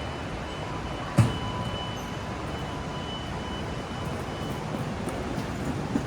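Steady rumble of a Taiwan High Speed Rail train, with one sharp knock about a second in. A faint high steady whine stops a little past halfway.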